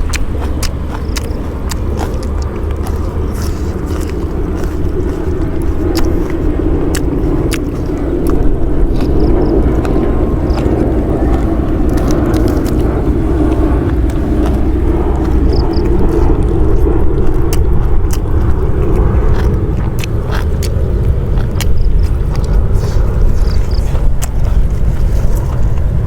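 Close-up chewing and crunching of food, with irregular sharp crunches over a steady low rumble.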